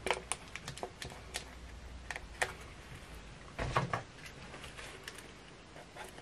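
Plastic spring clamps being handled and clamped, giving a scatter of sharp plastic clicks and clacks, with a heavier knock a little under four seconds in.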